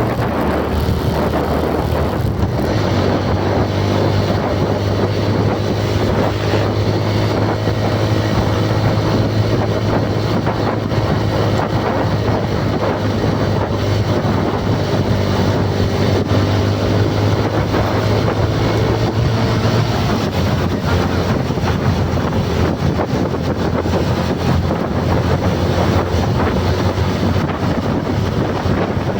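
A motor vehicle's engine runs at a steady speed under heavy wind buffeting on the microphone, recorded on the move.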